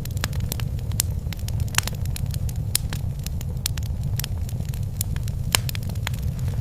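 Wood fire burning in a fireplace: a steady low rumble of flames with irregular sharp crackles and pops, a couple of them louder, about two seconds in and near the end.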